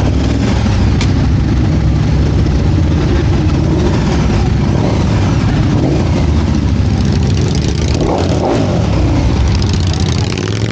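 Motorcycle engines running steadily at a loud, even level.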